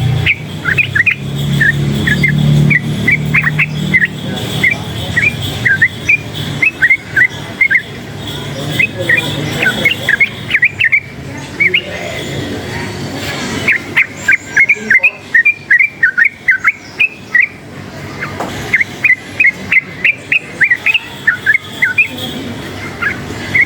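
Yellow-vented bulbul (trucukan) singing: quick runs of short, high whistled notes in phrases, with brief pauses between runs. A low engine hum underlies the first few seconds.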